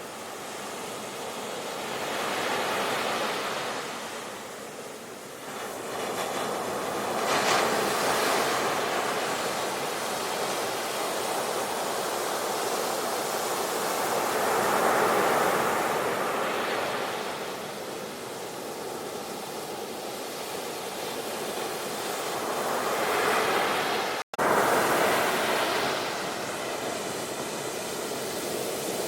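Sea waves surging and washing, a rush of surf that swells and ebbs every few seconds. The sound cuts out for an instant about three-quarters of the way through and comes straight back in at full strength.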